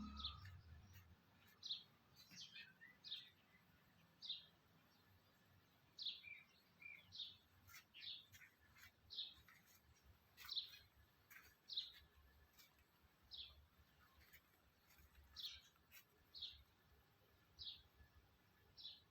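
A bird chirping: short high notes, each sweeping down in pitch, repeated irregularly about once a second.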